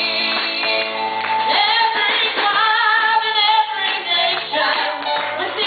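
A woman singing a gospel song over instrumental accompaniment, holding long notes with a wavering vibrato.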